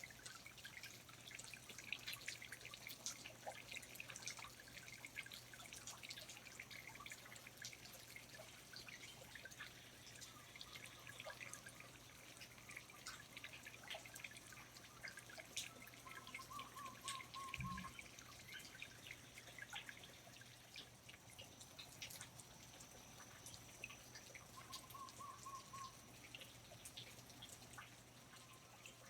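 Rainforest water dripping: scattered, irregular drops falling steadily over a faint low hum. A short warbling call sounds twice, about halfway through and again later.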